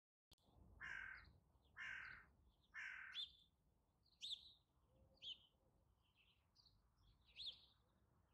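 A crow cawing faintly three times, about a second apart, followed by small birds chirping in short high notes.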